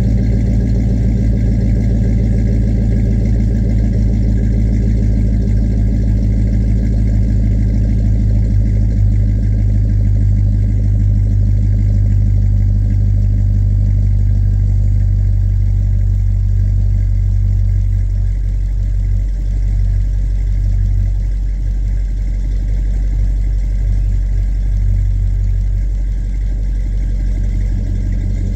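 Stock 5.3 LS V8 in an 1985 Chevy C10 pickup idling steadily soon after a cold start, heard through a new 2.5-inch exhaust with Flowmaster mufflers; it gets slightly quieter a little past halfway.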